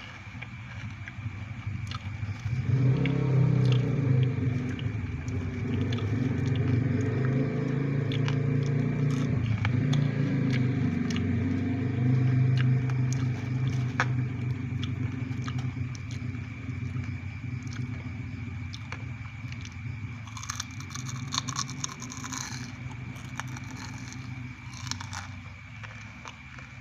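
Chewing and crunching of fried grasshoppers close to the microphone, with small crisp clicks throughout. A low rumble joins about three seconds in and fades out after about thirteen seconds.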